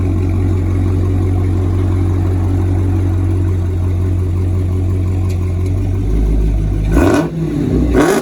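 Dodge Challenger Hellcat's supercharged V8 idling with a deep, steady exhaust rumble, then revved twice in quick short blips near the end.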